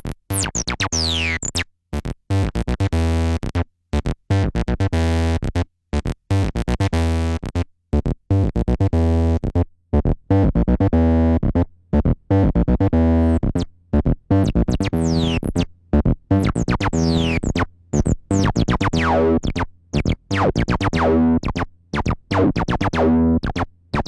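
Behringer TD-3 bass synthesizer playing a sequenced acid bassline: short staccato notes with rests between them, the resonant filter sweeping down from a bright squelch on some notes.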